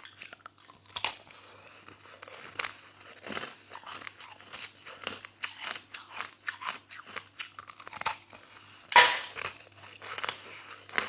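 A person biting and chewing soft crushed ice in an irregular run of crunches, with the loudest bite about nine seconds in.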